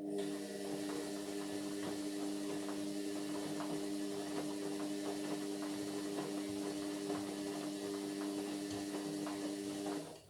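Indesit MyTime washing machine running with a steady mains-pitched hum for about ten seconds, with a patter of small clicks through it; it starts and stops abruptly.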